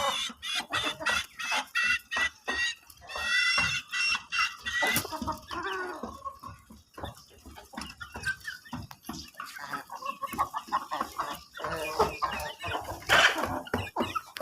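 Chickens clucking and calling, many short calls overlapping throughout.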